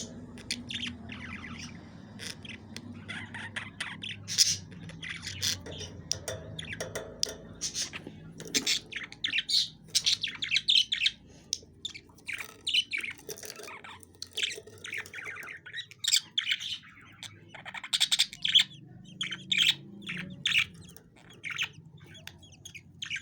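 Budgerigars chirping and chattering in quick, irregular high calls.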